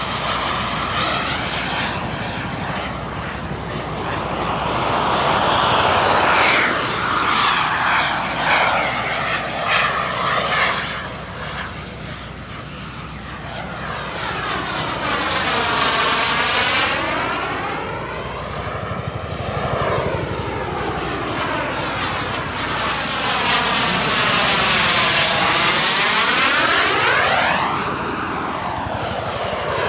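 Model jet turbine (KingTech 235) powering a large RC jet as it flies past several times. The roar swells and fades with each pass, loudest about halfway through and again near the end.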